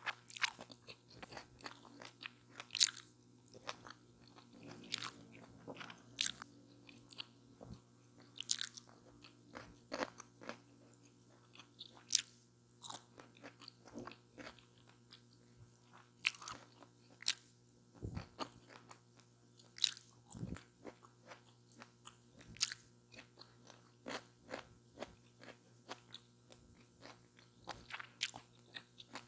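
Close-miked eating of a chicken taco: irregular crisp crunches and bites with wet chewing between them, the crunches coming every half second or so.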